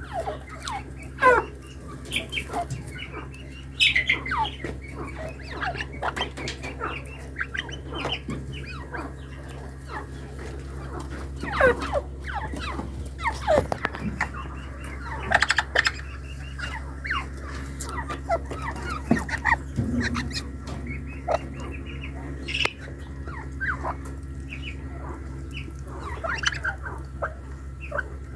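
Partridges calling: a scatter of short, sharp, falling chirps and squawks at irregular intervals, over a steady low hum.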